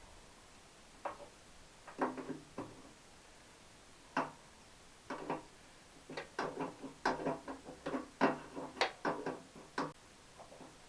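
A series of short, irregular knocks and clinks from hand tools and metal motorcycle parts being handled and fitted, some with a brief ring, bunched more densely in the second half.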